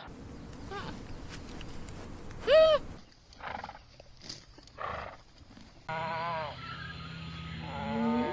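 A run of different animal calls in short spliced clips, changing abruptly twice; the loudest is a short pitched call about two and a half seconds in, and the last clip holds a few rising-and-falling calls.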